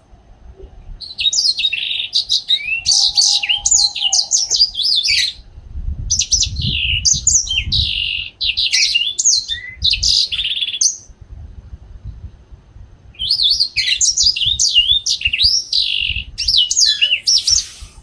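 A young songbird singing in three long bouts of rapid, varied whistled phrases, each lasting about four to five seconds with short pauses between.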